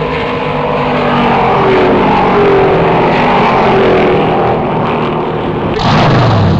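Stock-car V8 engines running at speed on the oval, their pitch slowly falling. Near the end one car passes close, loud, its pitch dropping sharply.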